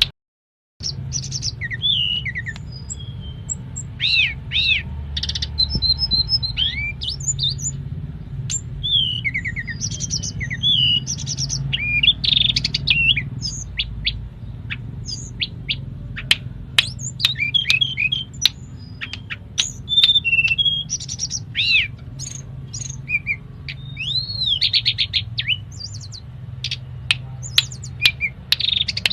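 Tledekan gunung (a small mountain songbird) singing a rapid, varied full song of whistled chirps, glides and trills, laced with imitated phrases of other birds, over a steady low hum. The sound drops out briefly right at the start.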